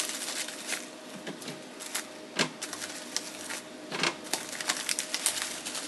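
Drink bottles being handled and squeezed into a storage container in a fridge: irregular clicks, knocks and rustling, with two sharper knocks about two and a half seconds and four seconds in.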